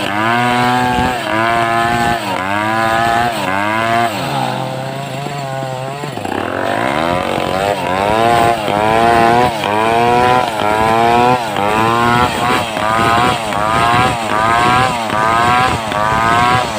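Homemade two-stroke chainsaw running, its engine revving up and dropping back in a steady rhythm a little more than once a second. About four seconds in it settles briefly to a low steady idle before the revving resumes.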